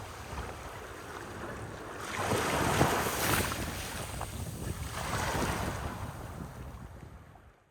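Ocean waves washing in, swelling twice, with wind rumbling on the microphone. The sound fades out at the end.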